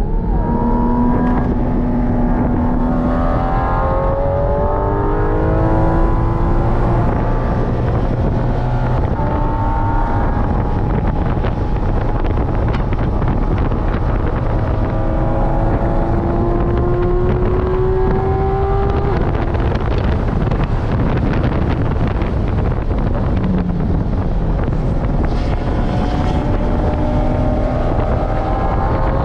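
Porsche 718 Cayman GT4 RS's 4.0-litre flat-six heard from inside the cabin under hard track driving. Its pitch climbs through the revs and drops back several times as it shifts and brakes for corners, over steady wind and road noise.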